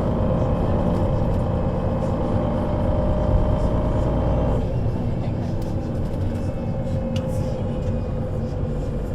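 Solaris Urbino 12 III city bus with a Voith automatic gearbox: its diesel engine runs under way with a steady note, then about halfway through the engine sound drops abruptly, as when the load comes off or the gearbox changes, and it carries on running more quietly.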